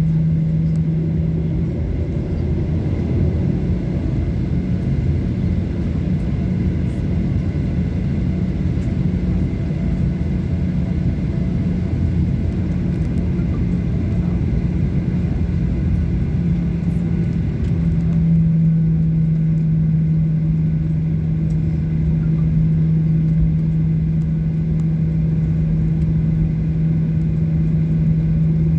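Boeing 737-800 cabin noise on the ground before takeoff: a steady low hum from the CFM56 engines and a continuous rumble. About two thirds of the way in, the hiss fades and the hum settles into one even tone.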